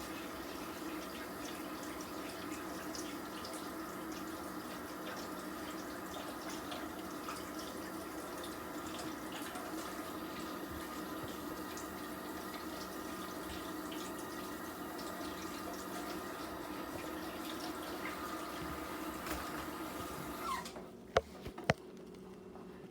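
Kitchen tap running steadily into the sink while a fork is rinsed. The tap is shut off about 20 seconds in, followed by a few sharp knocks.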